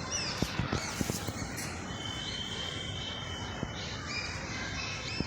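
Small birds chirping repeatedly in short, high, arching notes, with a few light knocks in the first second.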